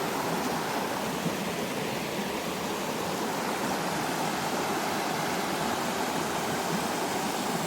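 Waterfall pouring steadily into a pool: a continuous, even rush of falling water.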